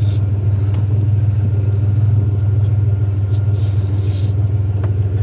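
Truck driving along at a steady pace: a continuous low engine and road drone with no change in pace.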